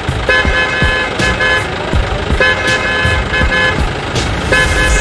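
Vehicle horn honking in short repeated blasts, in quick groups of two or three, over a low rumble and scattered knocks.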